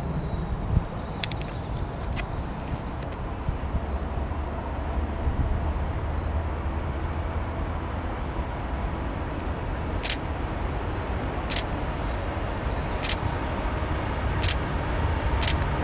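Diesel freight locomotives approaching from a distance, a low rumble slowly growing louder. A high pulsing chirp repeats over it, and a few sharp clicks sound near the end.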